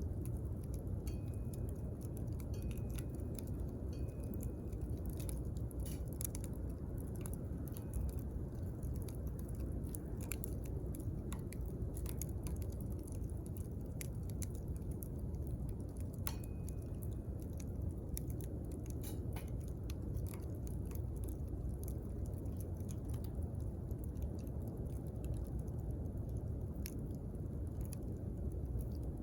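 Wood campfire burning, with irregular sharp pops and crackles over a steady low rumble of the flames. A few brief high whistles sound near the start and again about sixteen seconds in.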